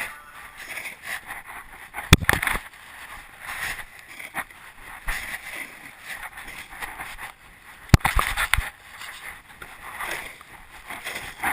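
1/8 scale RC monster truck driving, an uneven noisy running sound with two sharp knocks, about two seconds in and about eight seconds in.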